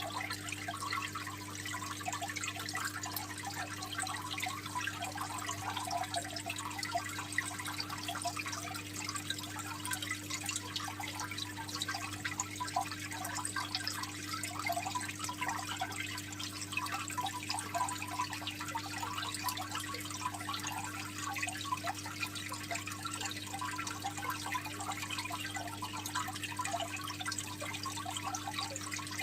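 Aquarium water trickling and bubbling steadily, over a steady low hum.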